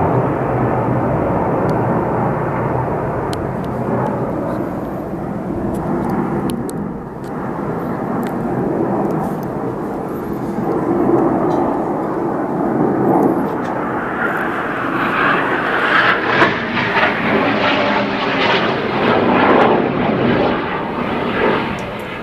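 Display aircraft engines passing by, a steady rushing engine noise. About two-thirds of the way in it grows louder and brighter as the aircraft come closer, then it eases off again near the end.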